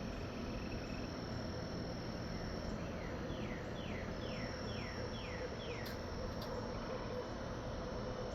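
Insects trilling steadily, with a bird calling a series of about six quick falling whistled notes in the middle.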